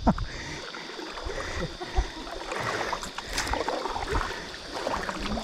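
Water running and splashing around a kayak on a flowing river, with a few soft knocks.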